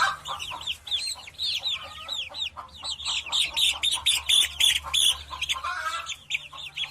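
A small bird chirping: a fast, continuous run of short high chirps, several a second.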